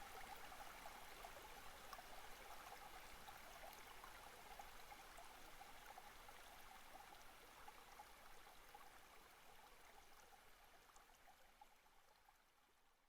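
Near silence: a faint, steady hiss-like background noise that slowly fades out near the end.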